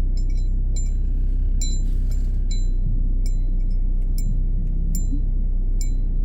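Steady low rumble of a car's engine heard inside the cabin, with light bell-like chiming ticks repeating about two or three times a second over it.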